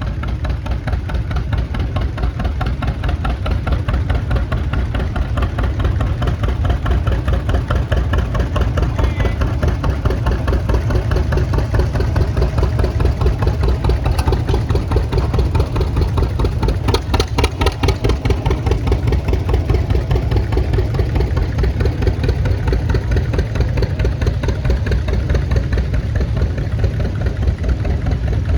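Antique tractor engines running at low speed in a slow parade, a steady even pulsing beat.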